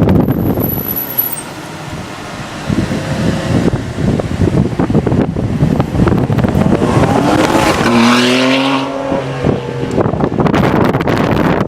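Ferrari 599 GTB Fiorano's V12 accelerating hard under full throttle, the engine note climbing in pitch about eight seconds in.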